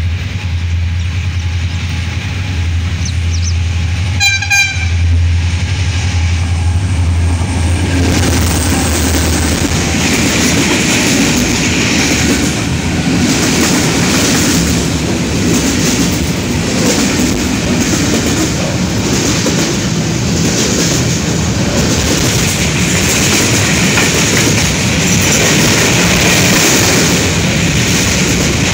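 HGMU-30 diesel locomotive hauling a container freight train, approaching with a low engine drone and giving a short horn toot about four seconds in. From about eight seconds the container wagons pass close by: a steady rush with a rhythmic clickety-clack of wheels over the rail joints.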